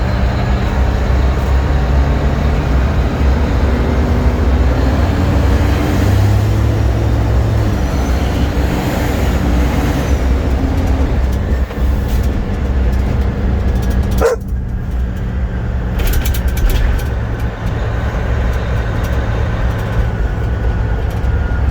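Fire truck engine running as the truck drives, its low note shifting pitch a few times. About two-thirds of the way through comes one short sharp sweep, after which the high hiss drops away.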